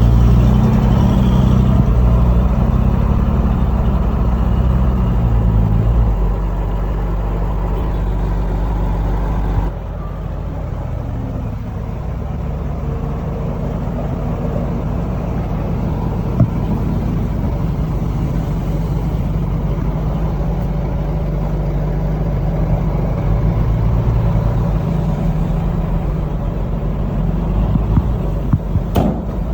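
Diesel engines of heavy earthmoving machinery running steadily, with an abrupt drop and change in the engine sound about ten seconds in.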